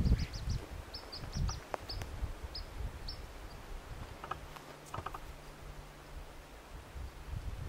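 A small bird chirping, a quick run of short high notes over the first few seconds, against low wind rumble and a few footsteps on the trail.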